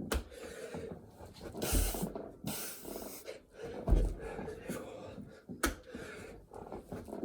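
A man panting hard between burpee reps, with heavy breaths in and out and a couple of low thuds.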